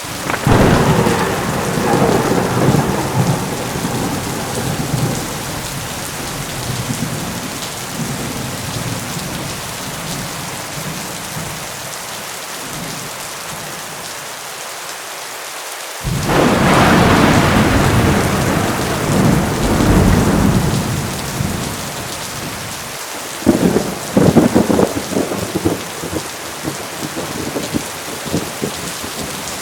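Heavy rain falling steadily under a thunderstorm, with three peals of thunder: a long rolling rumble that starts just after the beginning and fades over several seconds, a second loud rumble that breaks in suddenly about halfway through, and a sharper, crackling peal a little later.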